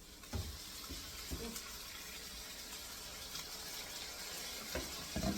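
Sweet potatoes in butter and sugar sizzling steadily in a multi-cooker pot, with a few soft knocks.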